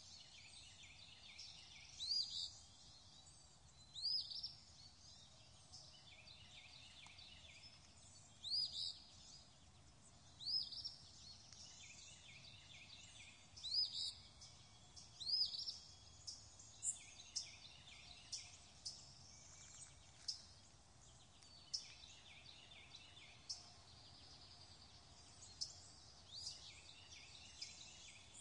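Faint birdsong over a soft steady hiss: short rising chirps every couple of seconds, then quicker, thinner chirps in the second half.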